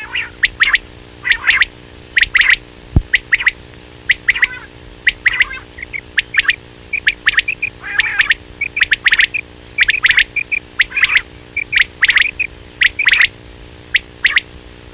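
Quail calling: short, loud chirping notes repeated in quick clusters every second or so, with softer single notes between them. A faint steady hum runs underneath, and there is one brief knock about three seconds in.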